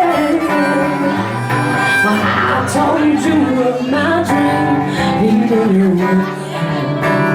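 Live band music: a soul band playing, with a sliding melody line over held chords and bass.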